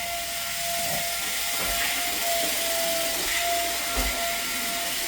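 Carpet-cleaning vacuum equipment running: a steady, high whine over a constant hiss, with a couple of brief low thumps.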